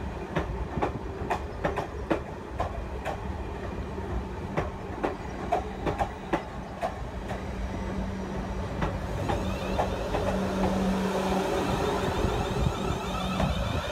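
Class 444 Desiro electric multiple unit moving slowly at the platform, its wheels clicking over rail joints. In the second half the clicks give way to a steady hum and a growing hiss.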